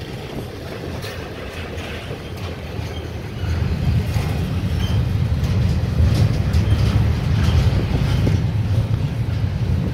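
Double-stack intermodal freight cars rolling past on the rails: a steady rumble of wheels on track that grows louder about three and a half seconds in.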